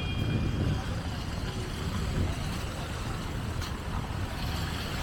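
Street traffic ambience: vehicle engines running steadily, with faint voices in the background and a short high tone right at the start.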